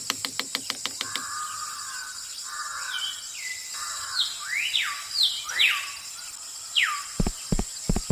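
Bird-like chirps, a series of quick rising calls, over a fast even ticking that stops about a second in. Regular low thumps, about three a second, start near the end.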